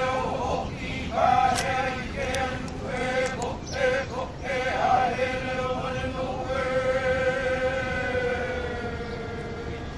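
Canoe builders chanting in unison in their ancestral language, a ceremonial pre-launch chant held largely on one pitch. The last line is drawn out for several seconds, sinking slowly.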